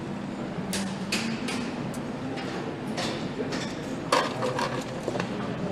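Assembly-line workshop noise: a steady background hum with scattered metallic clicks and clanks from tools and parts being handled, the loudest knock about four seconds in.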